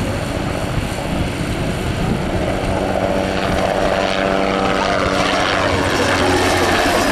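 Agusta-Bell 206B JetRanger helicopter in flight, its turbine and rotor running steadily, with a pitched hum coming in about two and a half seconds in and growing slightly louder toward the end.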